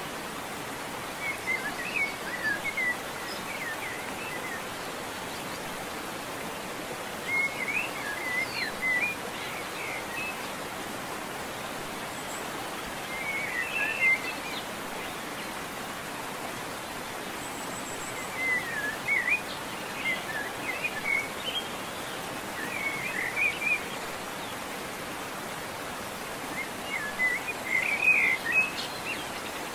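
Birds chirping in short bursts of song every few seconds over a steady outdoor background hiss.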